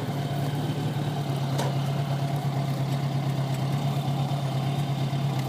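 Honda Gold Wing motorcycle engine idling steadily while the bike stands stopped.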